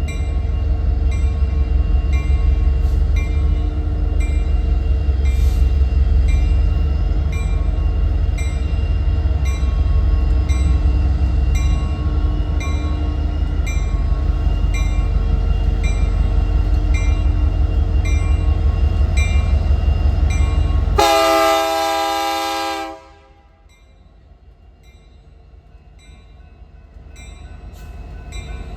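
A train running with a heavy low rumble and an even clicking about twice a second. About three-quarters of the way through, a locomotive horn sounds for about two seconds and stops abruptly, leaving a much quieter rumble that slowly grows again.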